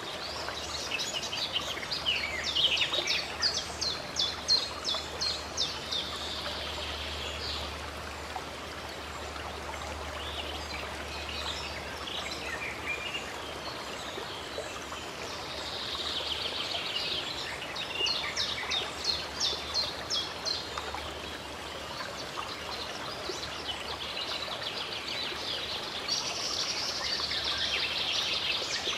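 Songbirds singing over the steady rush of running stream water. The birdsong comes in three long phrases of rapid, repeated high notes, each lasting several seconds: one just after the start, one about halfway through and one near the end.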